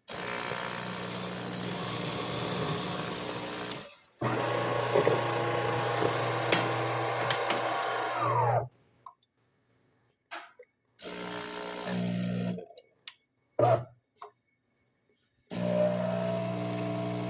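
De'Longhi Magnifica Evo bean-to-cup coffee machine running, a steady mechanical hum that stops and starts: two runs of a few seconds each, then several short bursts, then a fresh start near the end.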